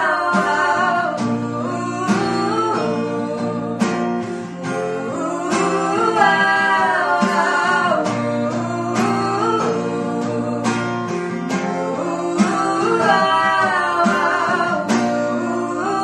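A voice singing a melody in phrases over a strummed acoustic guitar.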